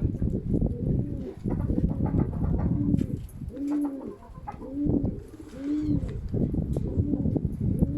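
Baku fighting pigeons cooing close by, one arched coo after another about once a second, with strong wind buffeting the microphone underneath.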